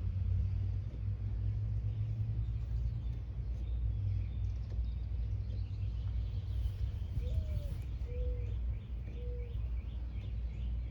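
Steady low outdoor rumble, with a few short bird calls about seven to nine seconds in and faint high chirps.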